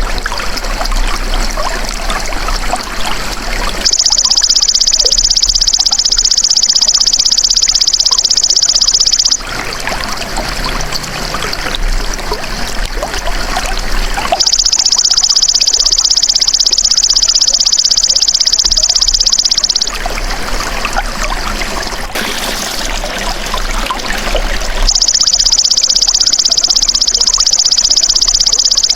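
Belalang emas (golden grasshopper) insect calling in three long, high, rapidly pulsed buzzing trills of about five seconds each, with gaps of about five seconds between them. A steady trickle of running water continues underneath.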